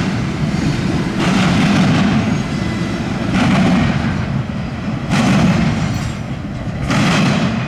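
Freight cars of a long intermodal train rolling past, steady low rumble of steel wheels on rail with a surge of clatter about every two seconds as each car's wheel sets pass.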